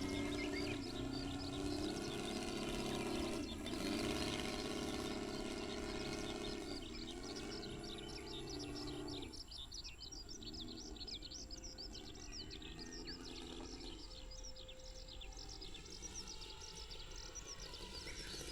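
Saito FG-60R3 three-cylinder radial petrol engine of a quarter-scale RC Sopwith Pup running in flight, its pitch dipping as the plane passes by twice, then fading to a faint drone after about nine seconds and growing louder again near the end. Birds chirp steadily throughout.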